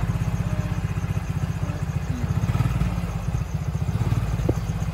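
Honda XRM 110 motorcycle's single-cylinder four-stroke engine idling steadily, an even low pulsing, with all its added LED lights switched on as a test of whether the charging system carries the electrical load.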